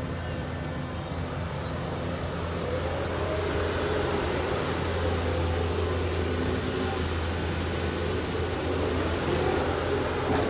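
Caterpillar 320D2 hydraulic excavator's diesel engine running with a steady low hum. It gets a little louder partway through, and a faint whine rises and falls over it.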